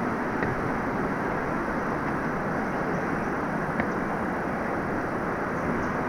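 Steady rush of a waterfall's falling water, with a couple of faint brief clicks.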